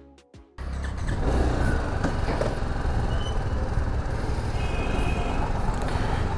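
BMW G 310 GS motorcycle's single-cylinder engine running steadily, with a constant noisy rumble, starting just over half a second in as background music cuts off.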